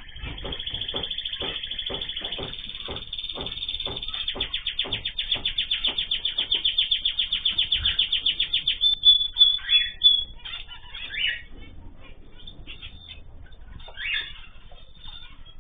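Cage birds calling: a long run of rapid, evenly spaced chirps at about five a second that grows louder, then breaks into scattered separate calls about nine seconds in.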